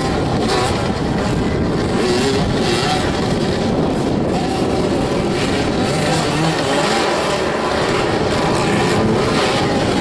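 Several motoball motorcycle engines running and revving during play, their pitch rising and falling.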